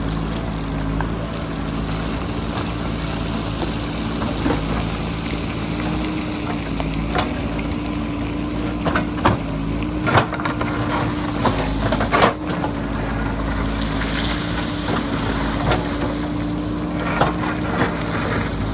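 JCB backhoe loader's diesel engine running steadily under load, its hum wavering slightly in pitch, with scattered knocks and clatters of the bucket working into rock and loose stone. Wind rumbles on the microphone.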